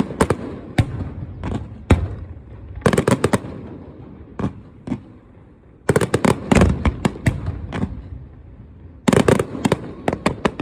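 Aerial fireworks bursting: clusters of sharp bangs in quick succession, several volleys about every three seconds, with a low rumbling echo dying away between them.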